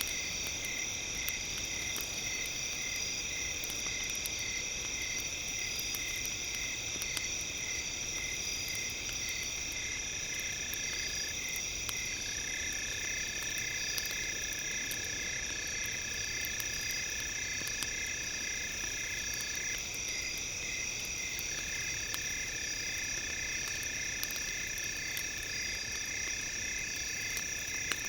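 Several steady high synthesized tones layered together: one pulses about twice a second, another switches on and off in long stretches. Faint scattered crackle of a campfire sits underneath.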